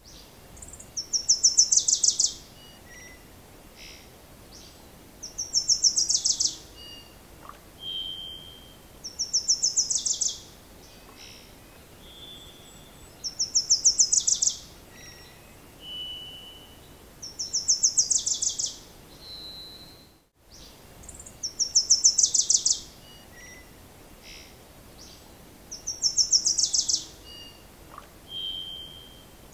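A songbird repeats the same short, fast trilled phrase about every four seconds, each phrase dropping lower at its end, with a short single whistled note between some phrases. The sound breaks off briefly about two-thirds of the way through.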